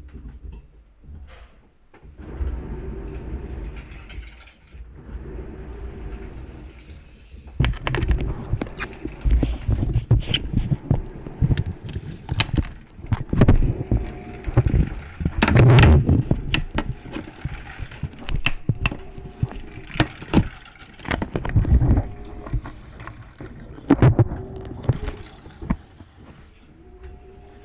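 Washing machine running: a low rumble with irregular clunks, knocks and rattles, quieter for the first few seconds and then busier and louder.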